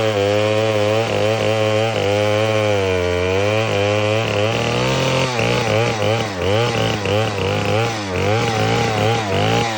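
Stihl 090 AV, a 137 cm3 single-cylinder two-stroke chainsaw, running with its engine speed wavering up and down. From about halfway through it is revved up and down rapidly, about twice a second.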